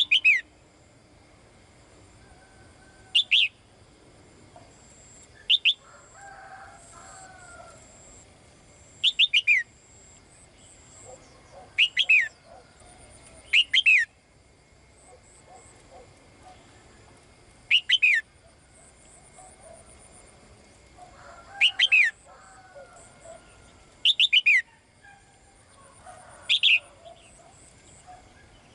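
Female caged songbird calling to a male: short loud calls that sweep down in pitch, repeated every two to four seconds, some in quick pairs. Fainter chirps and warbles sound between the calls.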